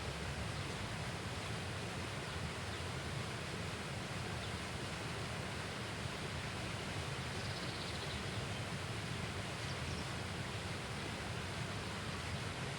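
Steady, even outdoor background noise, with a brief faint high trill about seven and a half seconds in.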